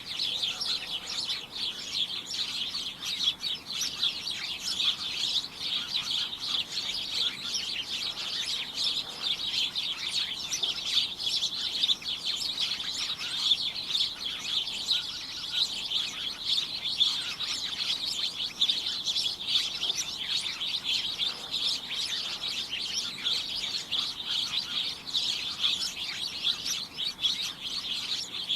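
A dense chorus of many small birds chirping continuously, a constant overlapping chatter of short high chirps.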